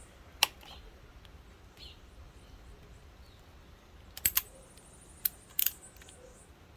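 Sharp metallic clicks of airguns being handled: a single click, then a quick pair about four seconds in, and another single click followed by a close pair near the end.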